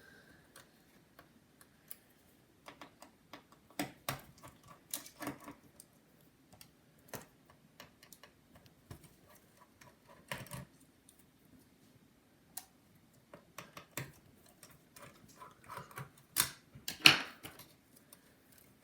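Irregular small clicks and taps of a precision screwdriver and tiny screws as the cooling fan inside a MacBook is unscrewed and handled. A louder clatter comes near the end.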